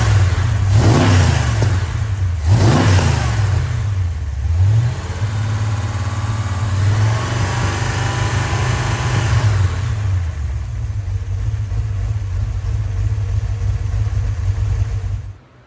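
Freshly rebuilt Chrysler 318 V8 on a run stand, blipped on the throttle a few times and then settling into a steady idle during its first start-up run. The sound cuts off abruptly just before the end.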